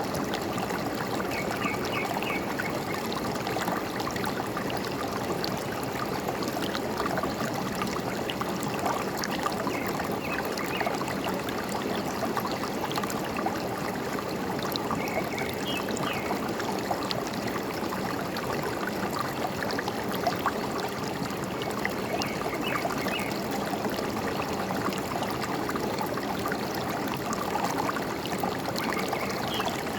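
Forest stream running steadily over rocks, trickling and gurgling. Now and then a bird gives a short burst of quick high chirps, about five times.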